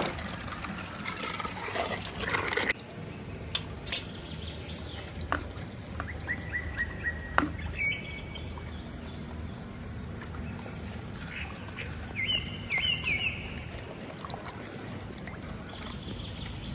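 Water trickling and splashing under a steady low engine hum, with scattered clicks and a few short, high chirps.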